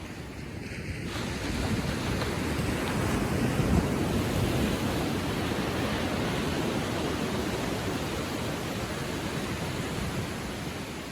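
Ocean waves lapping gently on the shore: a wash of surf that swells about a second in, peaks around four seconds and slowly eases off.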